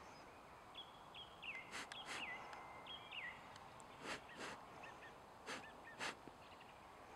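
Faint outdoor background with birds calling in short whistled notes that drop in pitch, mostly in the first half. Half a dozen short, sharp rustling noises stand out as the loudest sounds, two close together about two seconds in and the rest spread through the second half.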